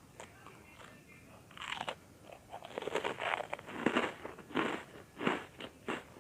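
Close-miked crunching and chewing of crunchy butter-toasted bread cubes: a crunchy bite about a second and a half in, then a run of crisp chews, about two a second.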